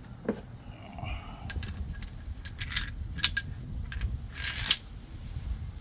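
Steel spacers and washers of a wheel bearing press tool clinking against each other as they are handled and stacked on the press bolt: several sharp, ringing metal clinks, the loudest a pair about four and a half seconds in.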